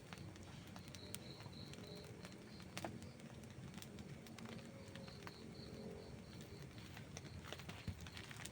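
Wood campfire crackling, with scattered small clicks and two louder pops. Two short runs of a faint, high, evenly repeated chirping sound behind it.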